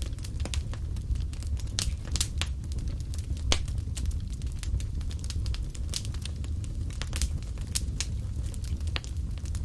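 Wood fire burning in a fireplace: a steady low rumble of flame with frequent irregular crackles and pops, one sharper pop about three and a half seconds in.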